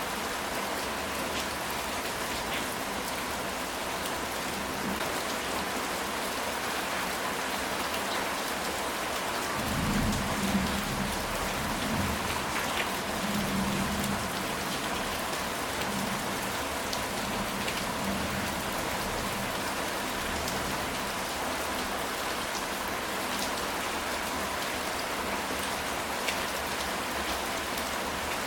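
Steady rain falling on a ceramic tile roof. A low roll of thunder rumbles in about a third of the way through and dies away over several seconds.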